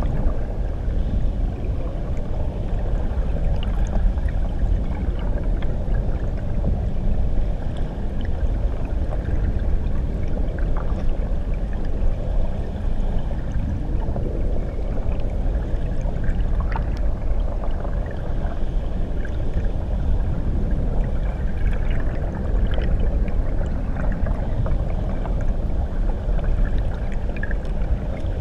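Underwater recording beneath a waterfall: a steady, muffled low rumble of churning water, with faint scattered bubbly clicks and pops.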